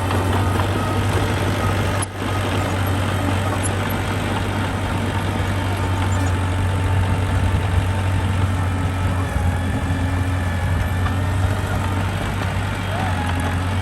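A construction machine's engine running steadily with a deep, even hum, briefly dipping about two seconds in.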